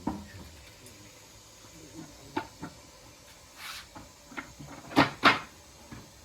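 A handful of sharp knocks and clatters of things being handled, with a short swish in the middle and the two loudest knocks close together about five seconds in.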